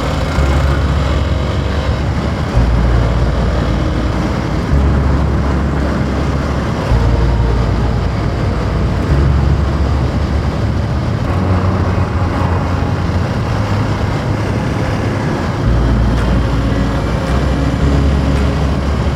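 Hero Xpulse 200 4V's single-cylinder engine running at road speed while riding, with wind noise over the microphone.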